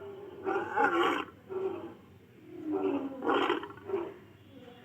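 Barbary lion roaring in a series of about four short calls, the longest about three seconds in.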